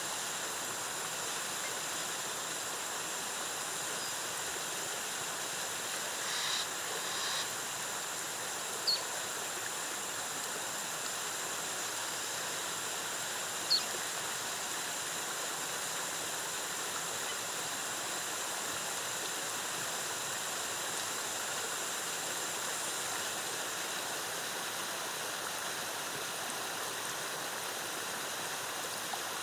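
Rainforest waterfall: a steady rush of cascading water. A few short high chirps cut through it, about nine and fourteen seconds in.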